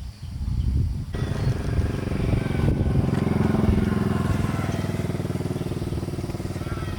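An engine starts about a second in and runs steadily with a fast, even firing beat.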